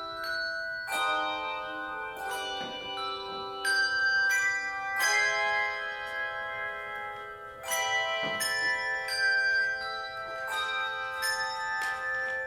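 Handbell choir ringing a tune in chords: struck bells whose notes ring on and overlap, with fresh strikes about every second.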